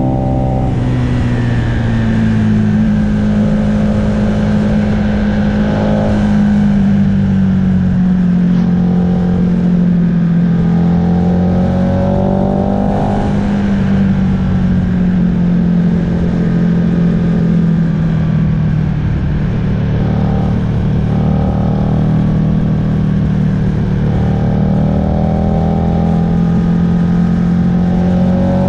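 Aprilia RSV R's V-twin engine running at road speed from onboard, with wind and road noise. The engine note rises a few times as the throttle opens, the last rise near the end.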